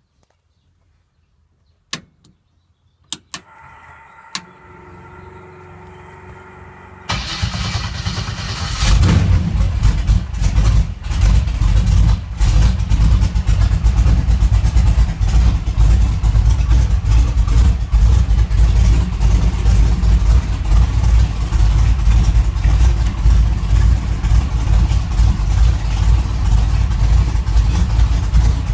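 Cold start of a pro street 1956 Buick's engine: a few sharp clicks and a faint steady hum, then about seven seconds in the starter cranks, the engine catches about two seconds later and settles into a loud, uneven idle.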